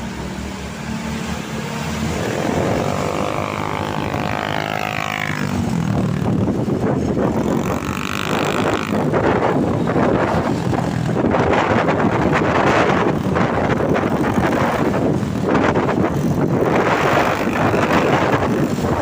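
Heavy trucks passing on a highway: an engine note that sweeps in pitch as a truck goes by, then a growing rush of tyre and wind noise.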